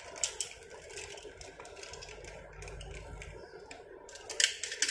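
Small clicks and light rustling from a small cardboard toy-car box being handled and worked open by hand, with a few sharp clicks shortly after the start and a cluster near the end.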